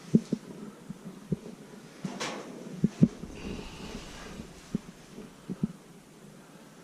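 Irregular dull thumps, a dozen or so at uneven spacing, with a brief scuffing rustle about two seconds in.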